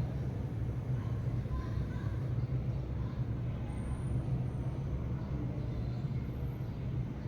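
Steady low rumble of road traffic, with a few faint, brief chirps of house sparrows.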